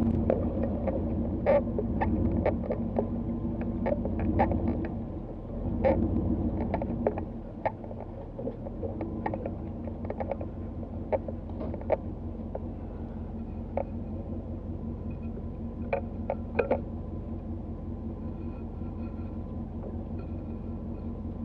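Tow vehicle's engine running at a steady low idle, with scattered sharp clicks and knocks. The engine is louder and rougher during the first several seconds.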